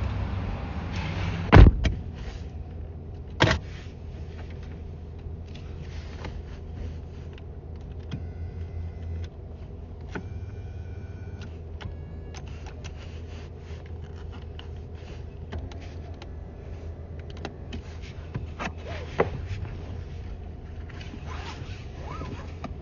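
Sounds inside a car cabin: a loud thump about a second and a half in and a smaller knock two seconds later, over a steady low hum, with short electronic chime tones around eight and ten seconds in and scattered small clicks and rustles.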